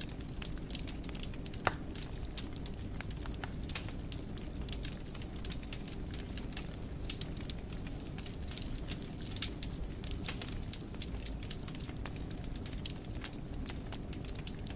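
Wood fire burning in a fireplace, a steady low rumble of flame with frequent irregular sharp crackles and pops.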